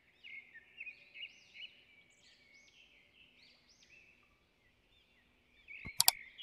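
Small birds chirping in a string of short rising-and-falling calls. Near the end comes a sharp double click, the loudest sound here.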